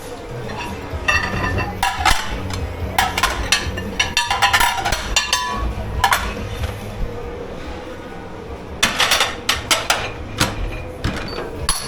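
Dishes, pots and cutlery clattering and clinking as they are handled at a commercial kitchen's washing-up station, in irregular clusters of knocks, over a steady low machine hum.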